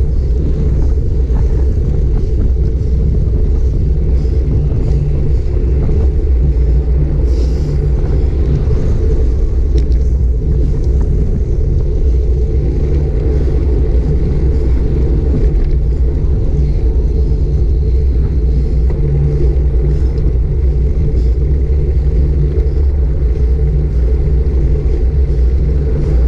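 Steady loud low rumble of wind buffeting a GoPro Hero 5 Black's microphone during a bike ride.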